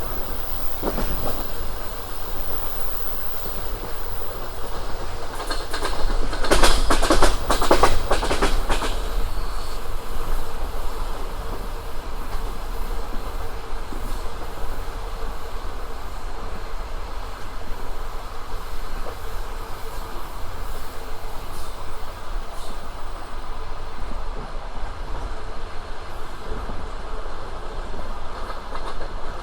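Passenger train running along the line: a steady rumble of the wheels and carriage, with a loud burst of clickety-clack from the wheels crossing rail joints a few seconds in.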